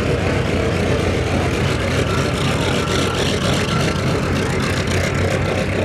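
Piston aircraft engine running steadily, a loud, even drone with constant low pitch.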